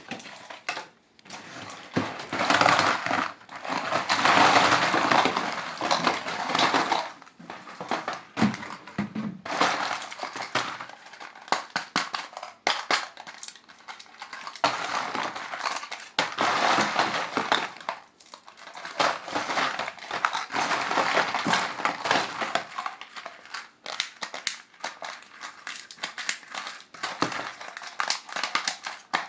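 Candy wrappers being crinkled and crumpled by hand, in long stretches of dense crackling with short pauses between them.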